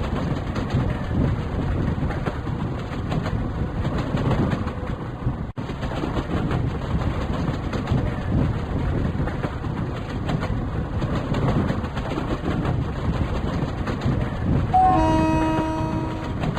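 Steady rumble and rattle of a running passenger train, with a train horn sounding once about fifteen seconds in for a second or so.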